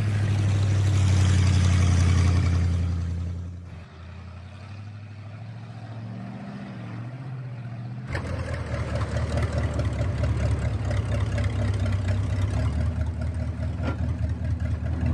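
Engine of an old 1952 Dodge truck running steadily. It is loud at first, drops away sharply about four seconds in, and comes back strongly about eight seconds in.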